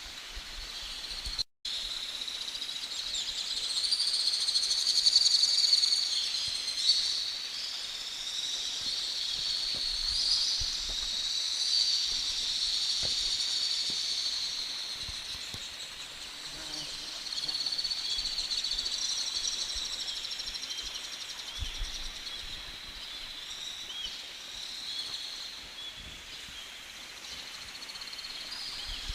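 Outdoor wildlife chorus: steady, high-pitched chirping and trilling with overlapping, wavering calls throughout.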